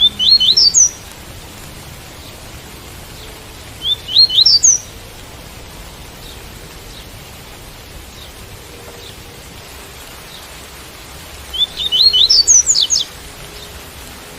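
Double-collared seedeater (coleiro) singing the tui-tui song: three short phrases of quick rising notes, about a second each, the first right at the start, then about four seconds later and again about eight seconds after that. Under them runs a steady hiss of rain.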